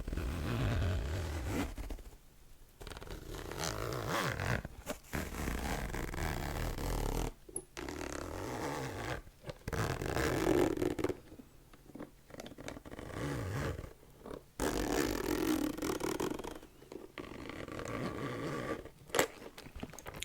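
Close-miked ASMR trigger sounds: repeated stretches of rough rubbing noise, each a second or two long, separated by short pauses, with an occasional sharp click.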